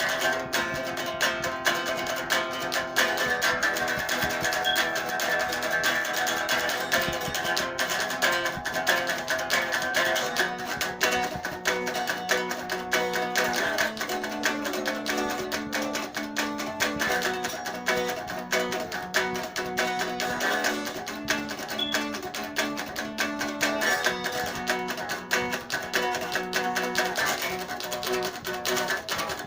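Guitar playing a continuous instrumental piece, with quickly picked notes over sustained lower tones.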